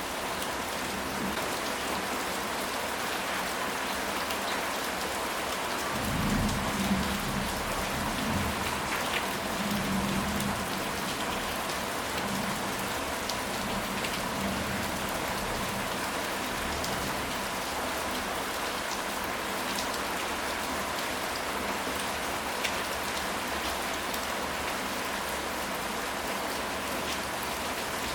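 Steady rain falling, an even hiss with scattered drop ticks. A low rumble of thunder swells about six seconds in and fades away by about eleven seconds.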